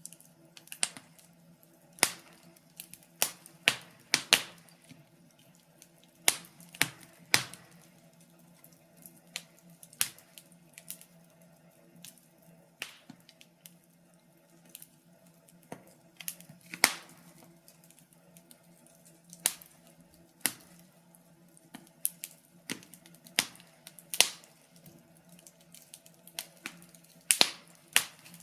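Wood fire crackling: irregular sharp pops and snaps, one or two a second, over a faint steady low hum.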